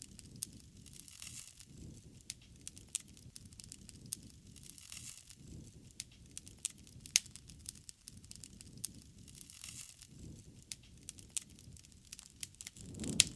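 Wood fire burning with irregular sharp pops and snaps over a low, swelling rush of the flames.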